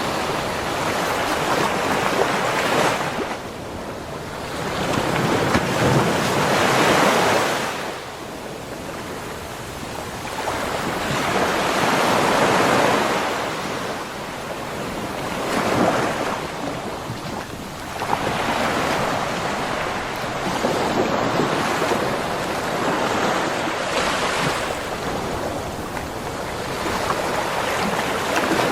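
Sea waves breaking and washing up a beach shore, the surf swelling and falling back about every four to six seconds.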